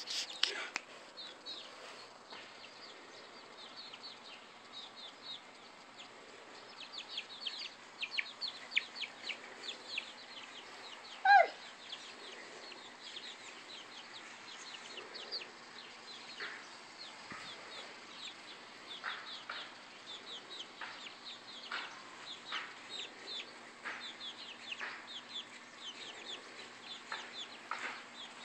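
Chickens clucking, with many short high calls throughout and one much louder call about eleven seconds in whose pitch falls.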